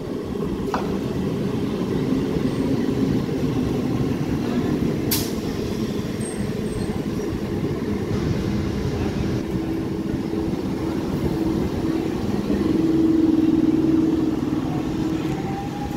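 Electric multiple-unit local train rolling in alongside the platform, a steady rumble of wheels on rail as the coaches pass close. There is a single sharp clack about five seconds in, and a steady hum swells to its loudest near the end.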